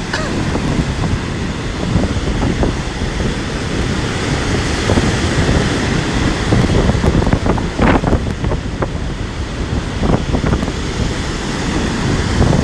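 Strong gusty wind buffeting the microphone over the steady rush of storm waves breaking on the shore.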